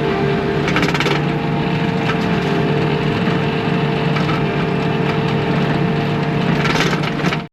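Bobcat T630 compact track loader's diesel engine running steadily under work, with a steady whine over the engine sound and two brief louder rasping surges, about a second in and near the end. The sound cuts off abruptly at the end.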